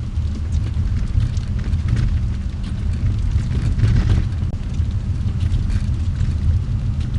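Car driving, heard from inside the cabin: a steady low rumble of engine and tyres on the road, with scattered light clicks and crackles over it.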